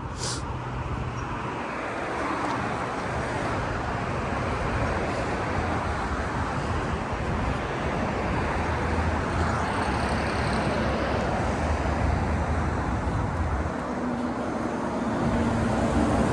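Steady road vehicle noise: car engine and tyre noise on the road, rising a little near the end.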